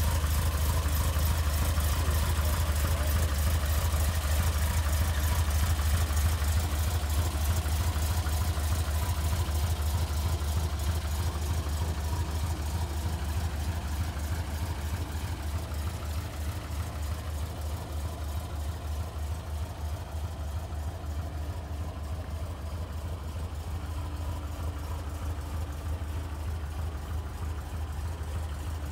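Porsche 356 B's 1582 cc four-cylinder boxer engine idling steadily through its aftermarket exhaust, a bit louder in the first half.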